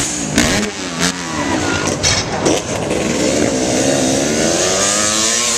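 KTM dirt bike engines revving, the pitch rising and falling as the throttle opens and closes, with more than one engine note overlapping. There are short crackles about half a second in and again around two seconds in.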